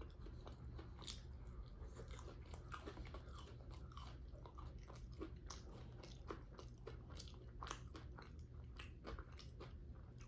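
Close-miked chewing and mouth sounds of a person eating, a faint, continuous run of small clicks.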